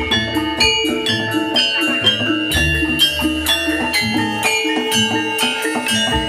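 Javanese gamelan music for jathilan dance: struck metal keyed instruments ringing in an even rhythm over low drum beats.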